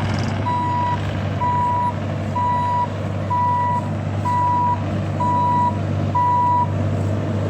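Travel-alarm beeper of a Bobcat E26 mini excavator sounding while the machine drives, seven steady beeps about once a second that stop near the end, over the machine's diesel engine running.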